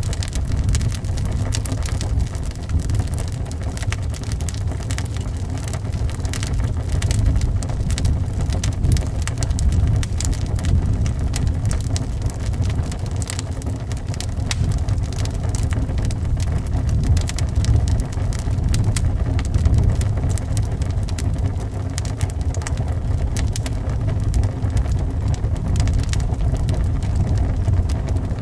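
Wood fire crackling with many quick, sharp pops over a steady low rumble of wind.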